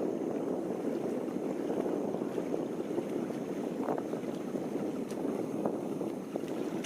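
Wind rushing and buffeting against the microphone, a steady fluttering rush with no break.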